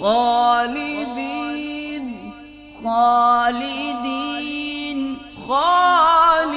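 A man reciting the Quran in a melodic, drawn-out chant (tajweed recitation). There are three long phrases, each opening with a rising glide into ornamented, wavering held notes, with short breaths between them.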